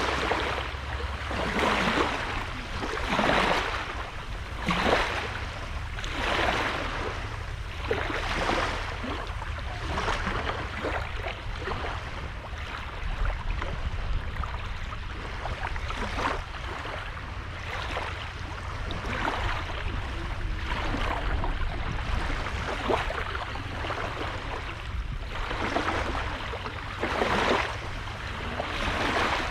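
Small sea waves breaking and washing on the shore, one rushing wash every second or two, over a steady low rumble.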